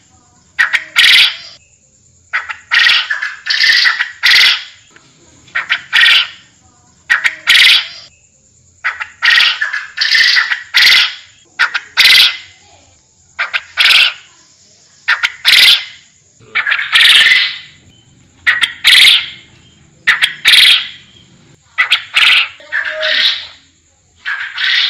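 Forest quail (puyuh hutan) calling loudly and repeatedly, a harsh call every second or two, some of them doubled. A faint steady high tone runs underneath.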